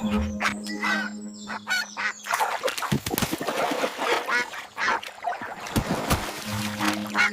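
Cartoon duck quacking and honking in a rapid run of short calls over background music.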